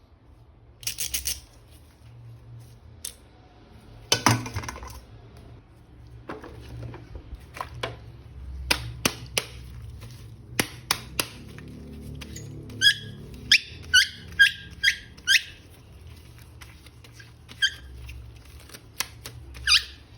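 Hands handling plastic action figures and packaging: scattered clicks and knocks, then a run of about seven short squeaks a little past halfway, over a faint low background hum.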